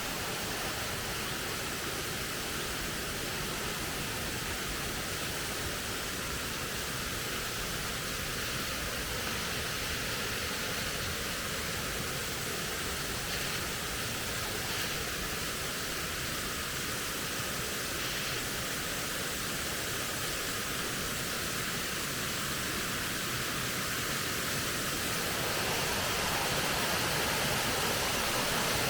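Steady rush of a waterfall, growing louder near the end.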